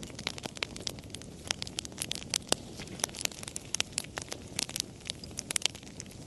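Wood fire crackling: irregular sharp pops and snaps, several a second, over a soft low rush of the flames.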